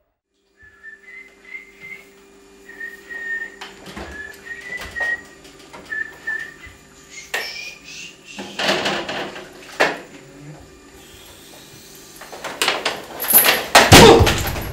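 Someone whistling a slow tune in a few held, wavering notes over a low steady hum. Several sharp knocks follow, and a loud burst of noise comes near the end.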